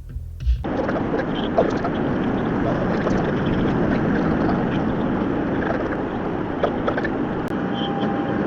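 Steady road and engine noise of a car on the move, picked up by a dashcam's microphone. It starts abruptly about half a second in, cutting off a few beats of music.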